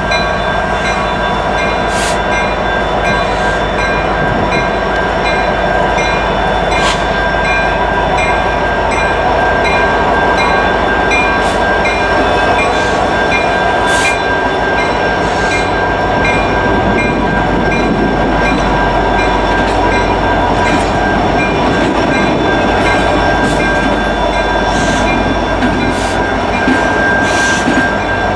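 Railroad cars of a passing train rolling on the rails: a steady loud rush with a sustained high-pitched tone and scattered sharp clicks from the wheels.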